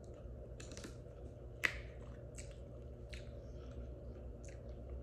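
Close-up chewing of soft, saucy food: scattered wet mouth clicks and lip smacks, about half a dozen, the sharpest about a second and a half in, over a low steady hum.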